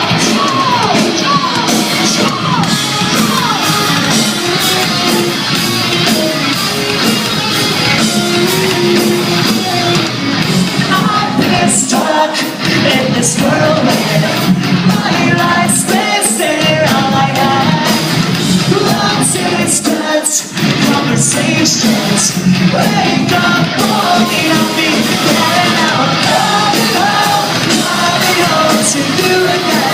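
Live pop-punk band playing loud, with singing. The low end drops out briefly three times, about 12, 16 and 20 seconds in, before the full band comes back.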